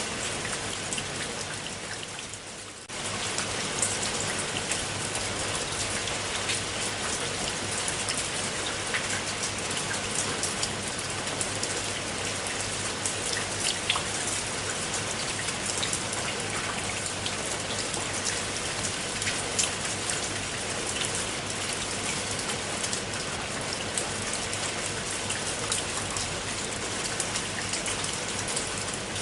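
Steady rain falling, with many individual drops ticking on a surface. The sound dips slightly in the first few seconds, then comes back suddenly about three seconds in and stays even.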